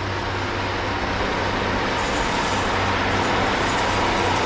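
British Rail Class 150 diesel multiple unit passing on the main line: a steady diesel engine drone under the rumble of the train. A thin high whine comes briefly about two seconds in.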